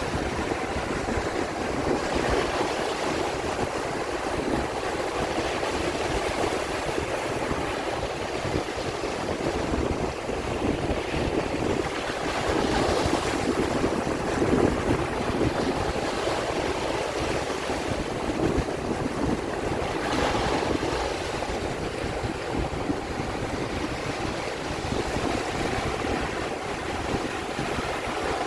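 Sea waves washing in a continuous rush of surf that swells up every several seconds.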